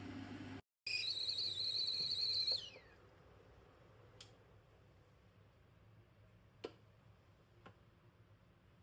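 A steady hum cuts off. Then a whistling kettle sounds for about two seconds, a wavering shrill tone that slides down in pitch as it dies away as the water comes off the boil. A few light clicks follow.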